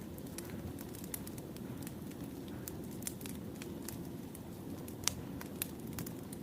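Wood fire burning, with a steady low rumble of flames and irregular sharp crackles and pops of burning logs; a louder pop about five seconds in.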